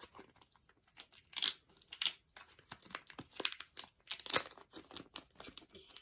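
Packaging being unwrapped and handled by hand: a run of irregular crinkles and rustles, with louder crackles about one and a half seconds in and again a little after four seconds.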